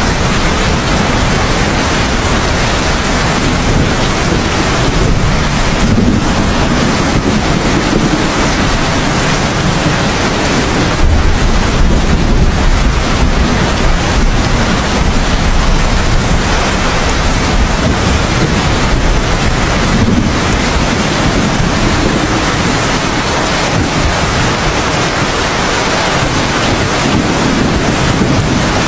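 Heavy rainstorm: a steady, dense downpour. A low rumble of thunder swells briefly about eleven seconds in.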